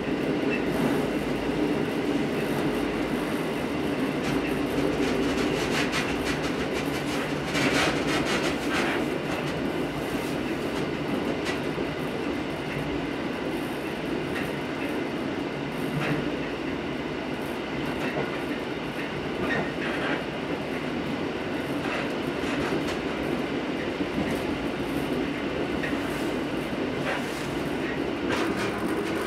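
Train running on the rails: a steady rumble with irregular clicks as the wheels cross rail joints.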